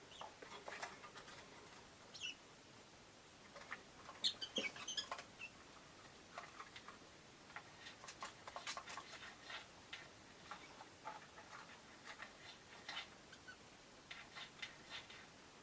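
Rosy-faced lovebirds chirping softly in short, scattered calls mixed with small clicks and ticks, with a brief run of higher, louder chirps about four seconds in.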